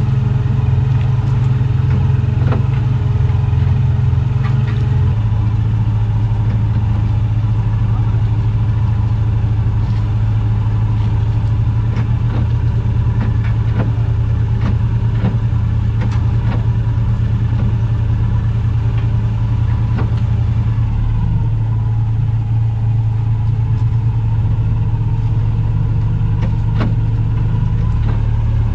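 Fishing boat's engine running steadily, its note dropping about five seconds in and shifting again twice later, with occasional faint clicks and knocks.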